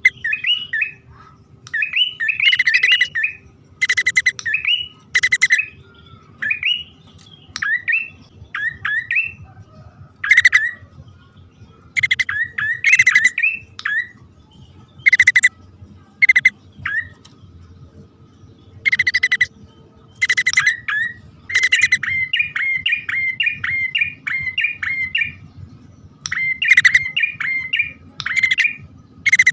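Male and female prenjak (prinias) calling, as used for bird-lure playback: harsh, rasping notes alternating with quick rising chirps, in bursts every second or two. A faster run of rapid chirps comes in the last third.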